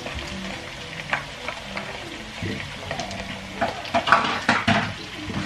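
Onions and iru frying in oil in a pan, sizzling steadily, while a spatula stirs and scrapes against the pan. The knocks and scrapes come thickest a few seconds in.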